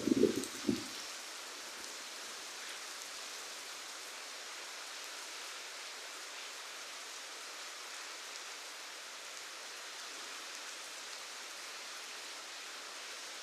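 Steady hiss of falling rain. A few short thuds come in the first second.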